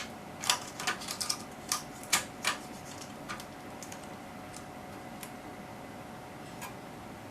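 A quick run of sharp clicks and clacks, about ten in the first two and a half seconds and then a few scattered ones, as hands handle the open HP 3245A's internal parts and connectors. A faint steady tone hums underneath.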